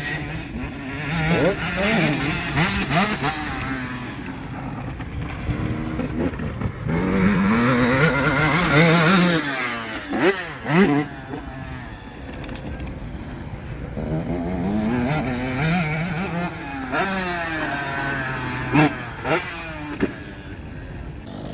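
Motocross dirt bikes racing on the track, their engines revving up and down over and over as the riders work the throttle.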